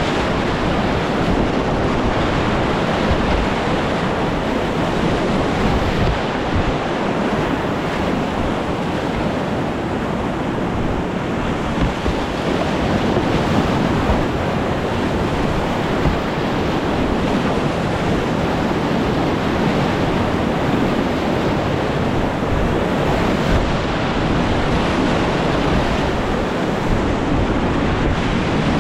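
Whitewater rapids rushing steadily and loud, with wind noise on the microphone.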